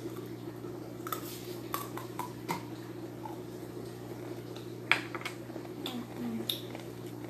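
Scattered light clinks and taps of ceramic dishes and craft items being handled and set down, a few separate knocks over several seconds, over a steady low hum.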